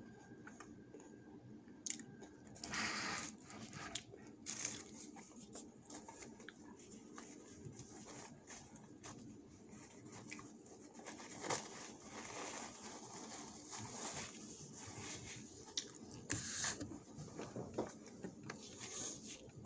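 A person chewing and biting food close to the microphone, with soft crunches, mouth clicks and a few brief rustles.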